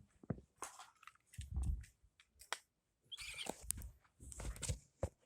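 Irregular handling noises: scattered sharp clicks, light knocks and short rustles, with a couple of dull low thumps about a second and a half in and again near the end.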